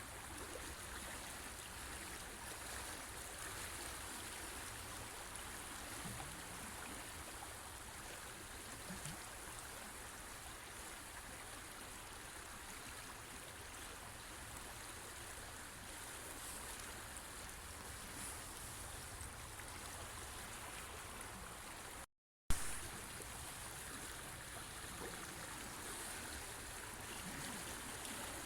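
A river or stream running, a steady rushing of water. About three-quarters of the way through, the sound drops out for a moment and comes back with a sharp click, an edit in the recording.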